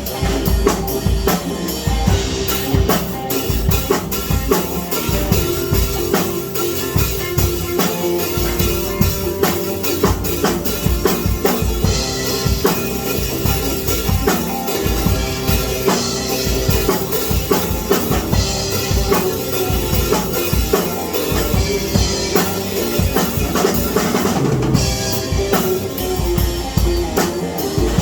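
Music driven by a drum kit, with bass drum and snare hits keeping a steady beat and a held pitched note underneath.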